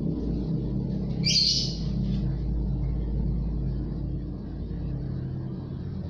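A young bird gives one short, high squawk about a second in while it is held and banded, over a steady low rumble.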